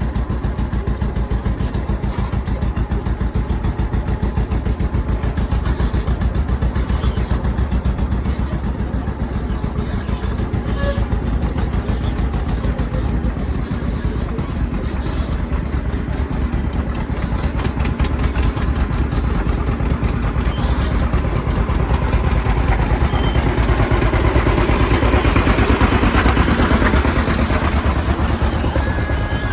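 Tractor engine running steadily while pulling a trolley, a low rapid firing pulse throughout, getting a little louder near the end.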